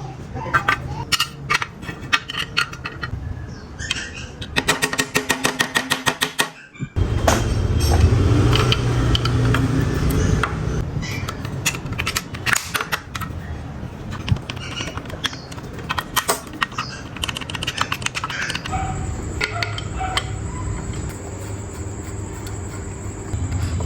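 Hand work on small metal parts: irregular clicks and taps, with a fast run of clicks about four seconds in, then a low rumble for a few seconds after an abrupt break, and more scattered clicks.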